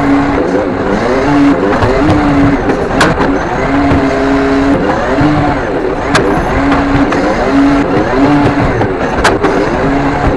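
Mercedes-Benz Econic side-load rubbish truck running with its hydraulic side arm working: a steady whine that breaks off and resumes every second or so, with shifting tones above it, and three sharp knocks about three seconds apart.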